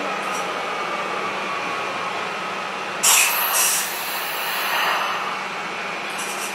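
Tokyu 5000 series electric train at the platform, running with a steady hum and a faint whine that falls slowly in pitch. About three seconds in comes a sudden loud hiss of compressed air from the brakes, which dies away within about a second.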